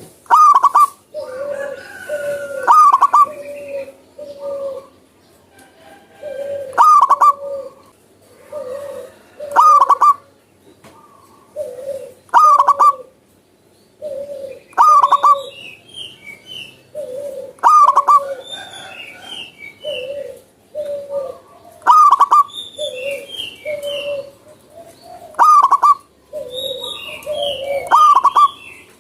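Zebra dove (perkutut) cooing over and over, each phrase a sharp high note followed by a string of lower coos, repeated about every two to three seconds. From about halfway on, short high chirps from another small bird fall between the phrases.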